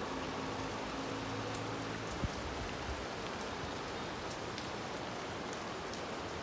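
Steady rain falling on a rooftop terrace garden, pattering on potted plants and wet floor tiles, with a faint low hum for the first two seconds. A single sharp knock about two seconds in.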